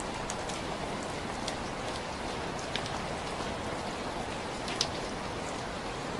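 Steady rain falling, an even hiss with scattered individual drops ticking on a surface, one sharper drop a little under five seconds in.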